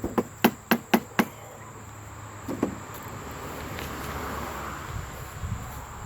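A quick run of six sharp knocks, about four a second, at the start, then a couple of softer knocks, over a steady high-pitched whine.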